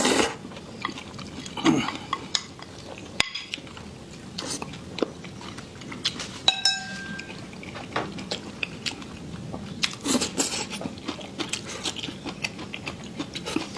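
Eating utensils clicking and scraping against dishes during a meal, with one clear ringing clink about six and a half seconds in.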